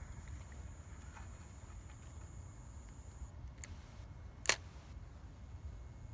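Two sharp clicks about a second apart, the second louder, over a steady low rumble and a thin high whine that stops partway through.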